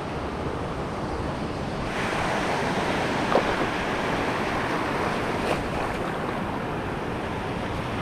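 Sea surf washing against the shore in a steady rush that swells about two seconds in, with a little wind on the microphone and two faint clicks.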